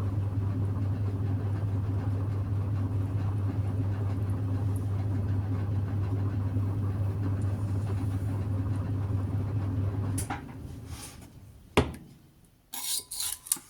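Electric potter's wheel motor running with a steady hum, then switched off about ten seconds in. A sharp knock follows, then a few short handling sounds near the end.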